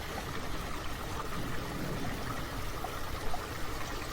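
Water running and trickling steadily into a pond, as from a garden fountain or water feature.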